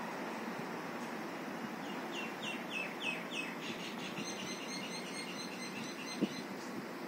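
A bird calling: a run of short downward-sliding notes, about three a second, then a quicker run of higher notes, over a steady hum of street traffic. A single sharp knock near the end.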